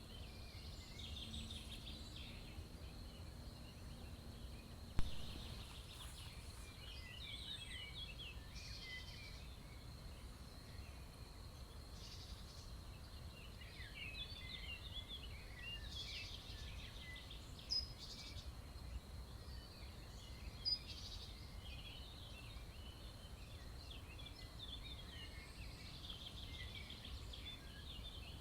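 Several small forest songbirds chirping and twittering throughout, over a faint steady high whine and a low background rumble. A sharp tap comes about five seconds in, and two fainter ones later.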